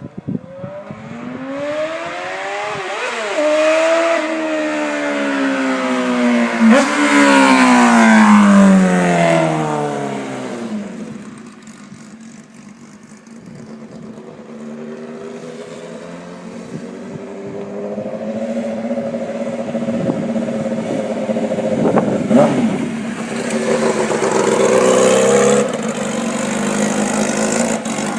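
2006 Kawasaki Ninja ZX-6R's inline-four engine revving as the bike is ridden: the pitch climbs for the first few seconds, then falls steadily for several seconds. It goes quieter for a while, then grows louder again with further rises and falls in pitch.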